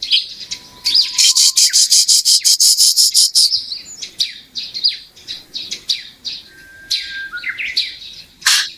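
Pet lovebird chirping: a fast, even run of sharp high chirps, about nine a second, for a couple of seconds, then scattered twitters and short squeaks, with one louder chirp near the end.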